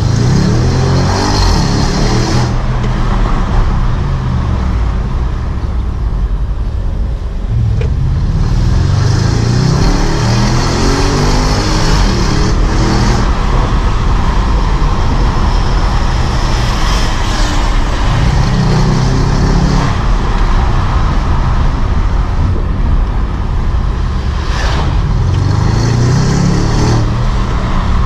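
Audi S7's twin-turbo V8 accelerating hard through the gears, heard from inside the cabin. It makes several pulls, each a rising engine note that drops back at every upshift, with quieter cruising between them.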